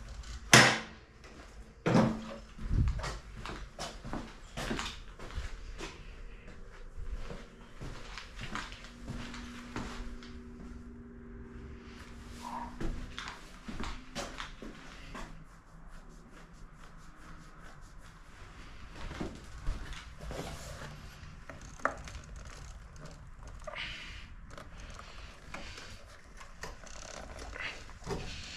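Scattered knocks, clicks and rattles of hands and tools working on a mini bike's fender to take it off. The sharpest knocks come about half a second in and around two seconds.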